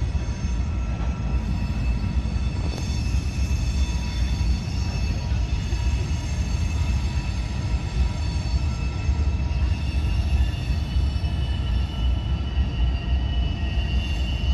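Train rolling past, a steady heavy rumble of steel wheels on rail, with a thin high wheel squeal over it.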